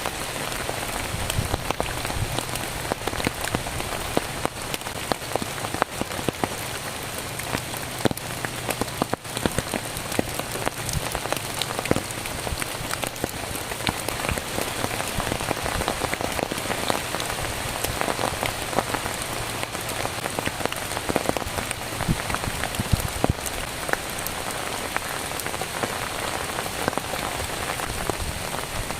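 Heavy rain falling steadily, with many sharp individual drop hits through the steady hiss.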